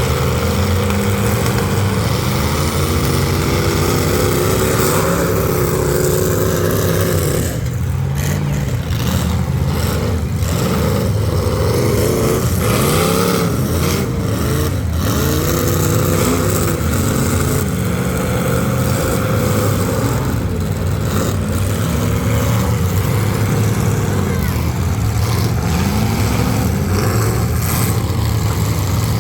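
Several full-size demolition derby cars' V8 engines running and revving at once, the pitch rising and falling as they accelerate and back up, with a few short bangs.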